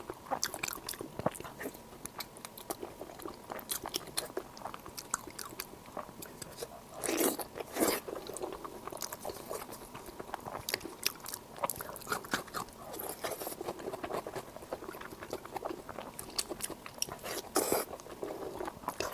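Close-miked eating: steady chewing and biting with many small wet mouth clicks and crunches, and a few louder, longer bites or crunches about seven to eight seconds in and again near the end.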